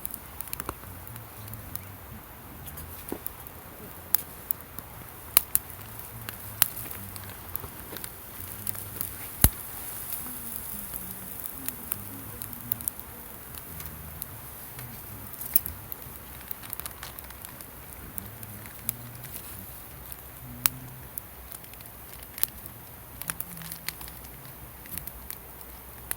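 Wood campfire crackling, with irregular sharp pops from the burning wood.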